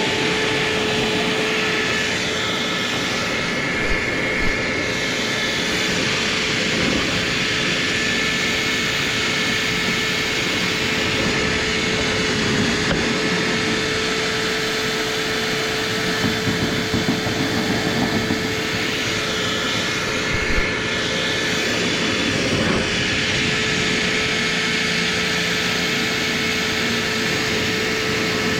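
Power drill running steadily at full speed, driving a rotary brush through a lint-clogged dryer vent line, with a constant whine over a rushing noise and a few light knocks.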